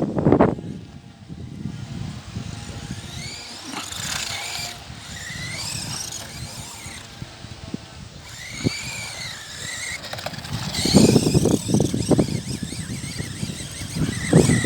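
Small electric RC trucks' motors and gears whining in repeated bursts, the pitch rising and falling as they speed up and slow down. A louder stretch of rough scraping comes about eleven seconds in.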